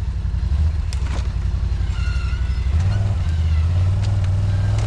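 ATV engine running under throttle, a low steady engine pulse that shifts upward about three seconds in.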